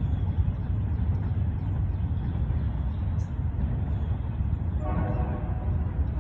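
Diesel freight train with BNSF locomotives running by with a steady heavy rumble; near the end the locomotive's air horn starts blowing, a loud chord of several tones.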